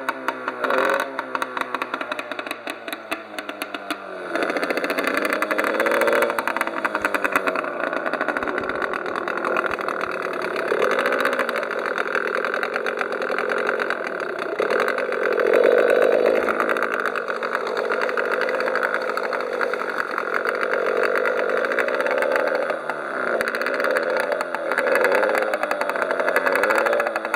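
Small Yamaha outboard motor running on a test run: a fast pulsing note at a low idle at first, then louder from about four seconds in, its pitch rising and falling as the throttle is worked. The owner finds it running rich.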